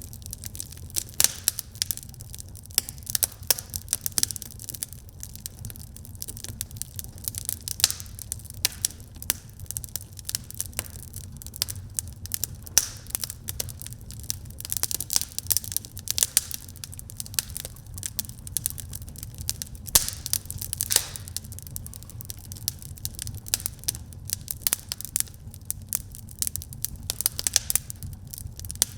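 Wood fire crackling in a fireplace: dense, irregular snaps and pops, some much louder than the rest, over a low steady rumble.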